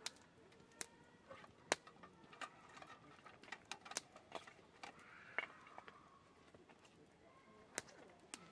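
Faint, irregular sharp clicks and small knocks, a dozen or so scattered through a few seconds.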